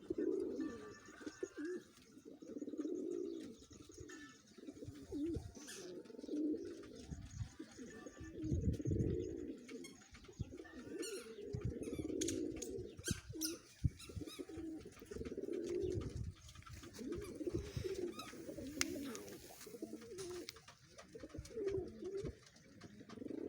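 Pigeons cooing: a low, warbling coo phrase repeated every second or two, with scattered sharp clicks and taps between the calls.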